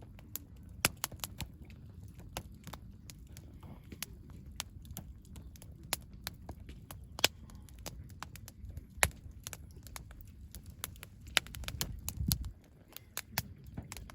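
Wood campfire crackling, with irregular sharp pops and snaps. A low rumble underneath cuts off suddenly near the end.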